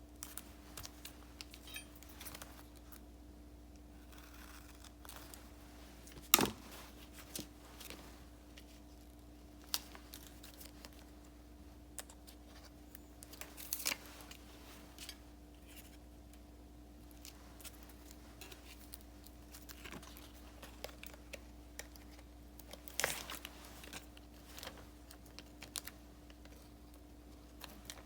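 Stickers and paper being handled on a desk: scattered light taps, clicks and paper rustles. Two sharper clicks stand out, about six seconds in and again near the end, over a faint steady hum.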